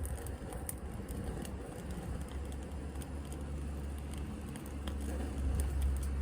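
Wood fire crackling in a small wood-burning stove, with sharp irregular pops from burning softwood. A steady low rumble runs underneath and grows louder near the end.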